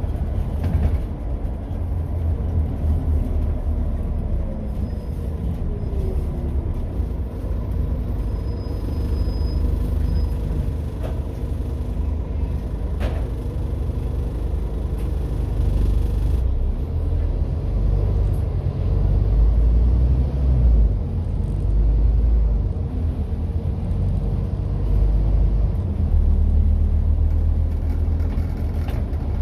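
Scania N230UD double-decker bus running, its five-cylinder diesel giving a steady low rumble that swells a little about two-thirds of the way through, with a single short click partway in.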